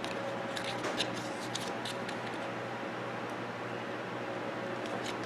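Faint clicks and scrapes of a plastic microwave cooling-fan blade being tugged and worked on its motor shaft. The blade is stuck and hard to pull off. A steady low hum runs under it.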